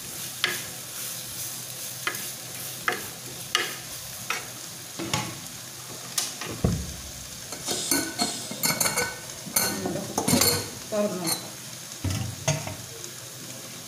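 Sliced onions and ground spices sizzling in an unglazed clay pot while a steel spoon scrapes and knocks against the pot as they are stirred. A steady frying hiss runs under the clicks, and the clinks and knocks come thickest about eight to eleven seconds in.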